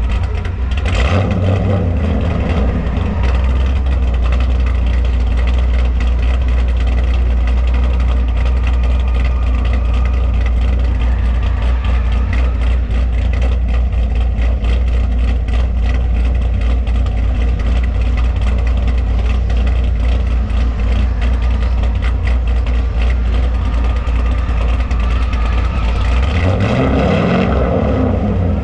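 Car engine running steadily with a deep low rumble. Near the end, its pitch rises as it revs.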